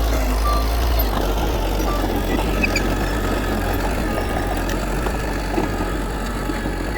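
Diesel engines of heavy earthmoving machinery running steadily, a deep low rumble with a dense mechanical clatter over it.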